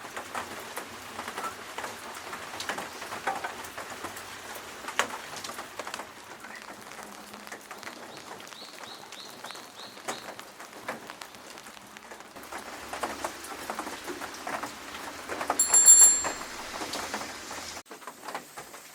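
Steady rain pattering and dripping on surfaces, with many small irregular drip ticks. About nine seconds in come five quick high chirps, and near the end a brief, loud, high-pitched ringing tone.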